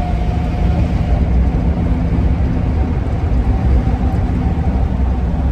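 Ford E-350 camper van driving, with steady road and engine rumble. A faint steady howl fades out and comes back: the wind howl from the roof rack.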